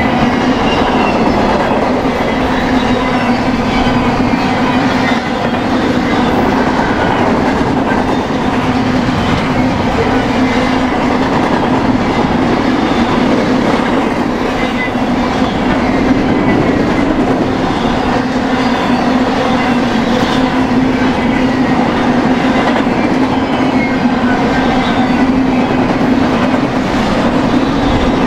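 BNSF intermodal freight train rolling steadily past, wheels clacking over the rail joints with a loud, even rumble and a steady hum.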